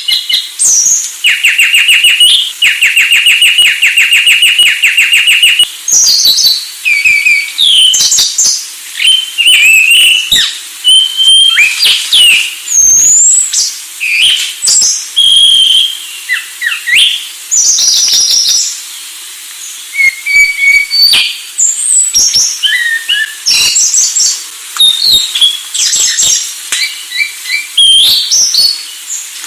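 Anis Sulawesi thrush singing a long, varied song of whistled phrases, sliding notes and rapid trills, with a fast trill of a few seconds near the start and brief pauses between phrases.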